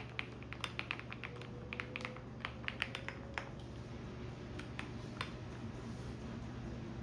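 Computer keyboard typing in quick runs of keystrokes that stop about halfway through, with a couple of stray keys after. Underneath is the steady low hum of a washing machine running.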